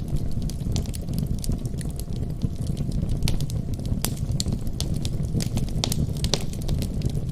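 Wood fire burning in a fireplace: irregular sharp pops and crackles, several a second, over a steady low rumble.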